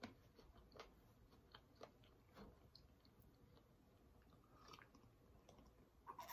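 Near silence broken by faint chewing and scattered small mouth clicks close to the microphone.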